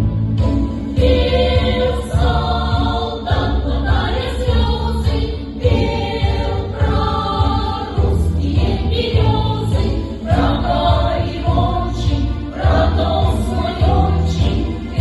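A Russian-song ensemble's choir singing with instrumental accompaniment, over a bass that pulses in a steady beat.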